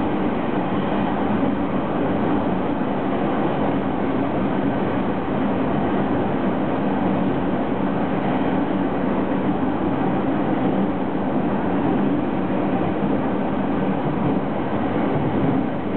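Steady running noise of a JR 209 series electric commuter train heard from inside the passenger car while it runs at speed.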